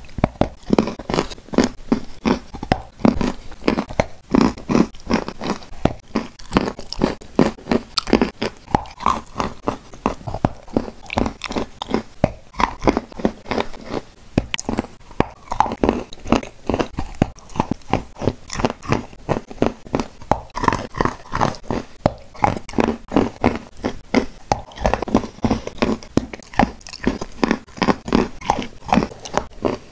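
Close-up chewing and crunching of a shortbread cookie coated in clay paste: a steady run of crisp bites and chews, several a second.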